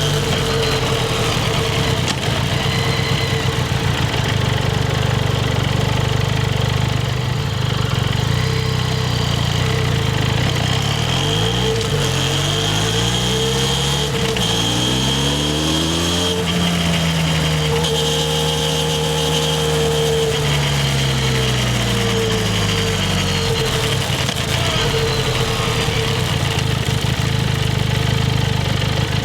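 Harley-Davidson X350's parallel-twin engine running, steady at first, then rising in pitch over about five seconds halfway through, holding for a few seconds and falling back to a steady note.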